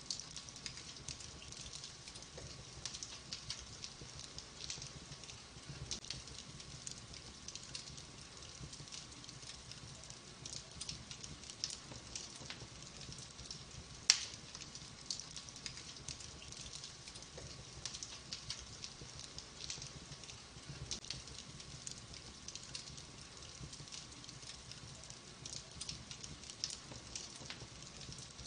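Wood fire burning in a fireplace: soft steady hiss with many small crackles and ticks from the logs, and one loud sharp pop about halfway through.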